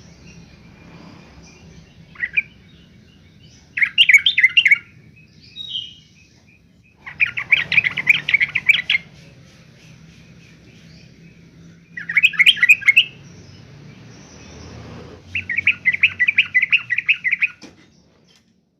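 Yellow-vented bulbul singing: short bursts of fast, bubbly chattering notes, repeated every few seconds, about five phrases in all.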